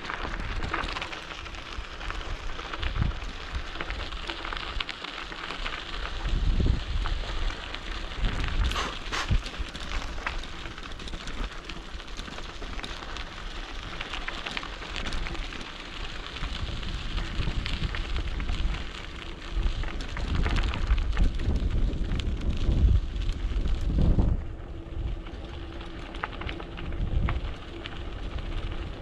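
Mountain bike riding over a rough gravel and dirt track: tyres crunching and the bike rattling in a constant crackle, with heavy low thumps and rumbles from bumps and wind on the microphone, strongest several seconds in and again past the middle.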